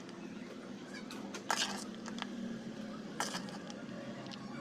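A spoon mixing a crumbly soft food of bread crumbs, crushed egg and lentils in a bowl, with a few short scraping sounds over a low steady hum.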